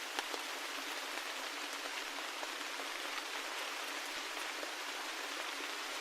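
Steady rain falling, an even hiss with scattered individual drops ticking, one a little louder just after the start.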